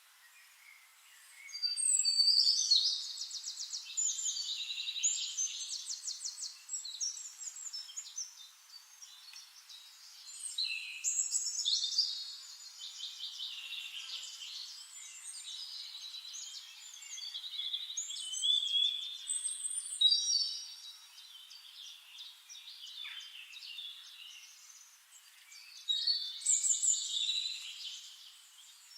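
Songbirds singing: four long phrases of rapid trilled and chirping high notes, with quieter gaps between them.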